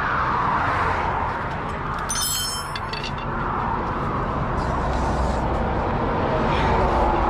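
A vehicle engine running steadily, with a short ringing metallic clink about two seconds in.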